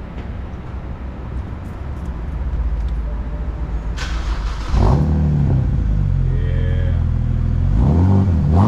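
2011 BMW 328i's inline-six starting up with its rear muffler deleted. About four seconds in the starter engages, the engine catches with a flare of revs and settles to a steady idle, then it is revved up near the end.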